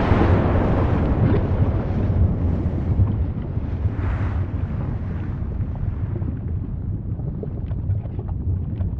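Volcanic eruption rumbling: a deep, continuous noise that swells loudest at the start and again about four seconds in, with scattered faint crackles toward the end.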